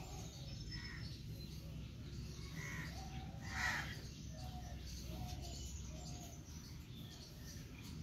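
Birds chirping and calling in short notes, with one louder call near the middle, over a low steady rumble.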